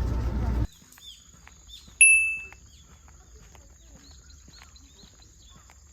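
Small birds chirping with many short falling calls, and one loud, clear whistled note about two seconds in. A low rumble cuts off abruptly less than a second in, and a thin, steady high tone runs beneath.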